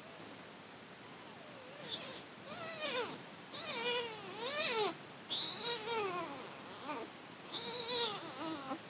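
A kitten meowing again and again: about eight short, high, wavering calls in quick succession, starting about two seconds in.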